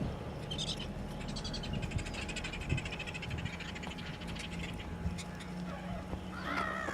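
Gulls and terns calling: a high, rapid chattering for the first few seconds, then a wavering call near the end, over a faint steady low hum.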